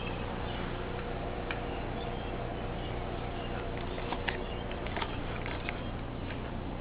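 1982 Lakewood 20-inch box fan running steadily: an even rush of air over a low motor hum. A few faint short ticks or chirps come through over the middle seconds.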